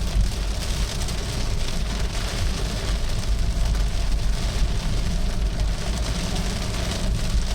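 Heavy storm rain beating steadily on a car, over the low rumble of the car running on a wet road.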